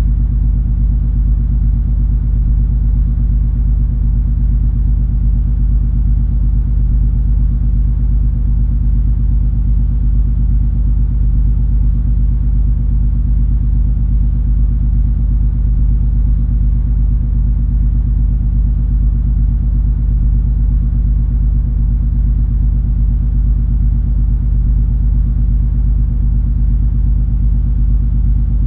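Cruise ferry's engines and hull heard from aboard: a steady deep rumble with a constant low hum, unchanging throughout.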